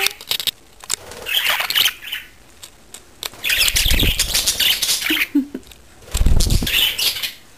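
Budgerigars flapping their wings in three bursts as they fly close by, each a few seconds apart, with deep wing-beat thumps in the second and third.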